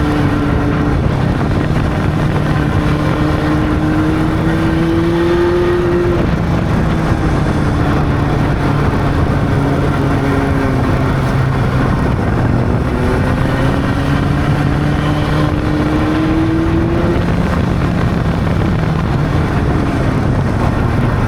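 Honda CB600 inline-four motorcycle engine running under way, its pitch climbing slowly for several seconds, dropping about six seconds in, and climbing and falling again, with steady wind and road noise underneath.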